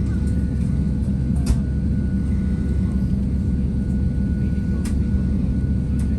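Jet airliner engines running with a steady low rumble and a faint steady whine, with a few faint clicks.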